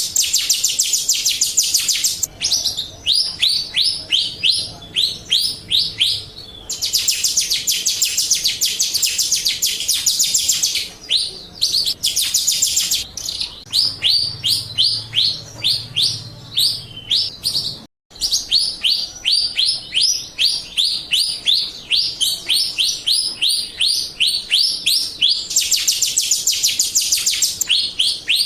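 Jalak Rio singing a lure song: stretches of very rapid, high, rattling trill alternate with runs of quick separate chirps, about five or six a second. The song breaks off briefly about eighteen seconds in, then resumes.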